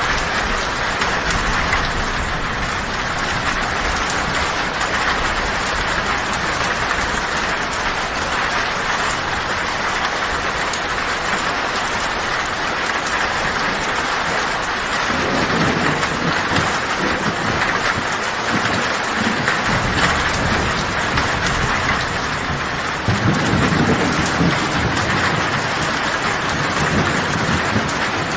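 Heavy rain drumming steadily on a tin roof, with two low rolls of thunder, one about halfway through and a louder one near the end.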